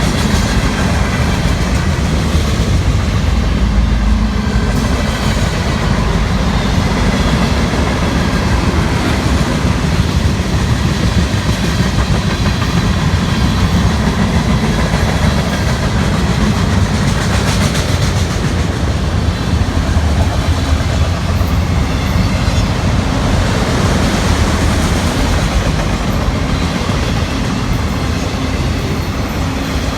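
Freight train cars rolling past on the track with a steady rumble and wheel clatter on the rails.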